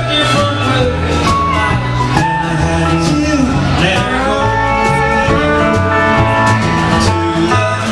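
Band music in a country and rockabilly style, with guitar and singing, played steadily.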